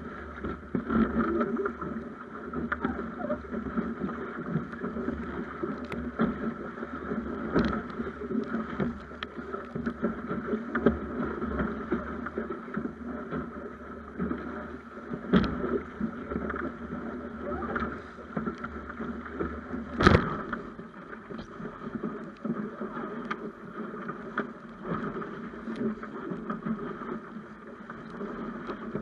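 Water rushing and splashing along a Snipe sailing dinghy's hull, with wind buffeting the microphone. Several sharp knocks come through, the loudest about twenty seconds in.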